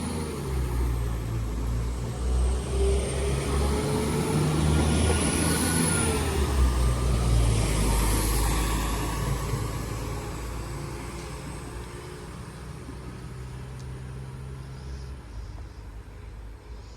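Class 196 diesel multiple unit's underfloor diesel engines working hard as the train pulls out, the engine note rising in pitch, then dropping and fading away over the last several seconds as it leaves.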